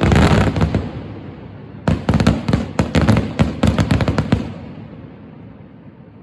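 Aerial fireworks bursting: a loud boom at the start dies down, then a quick run of many sharp crackling bangs about two seconds in, fading away after about four seconds.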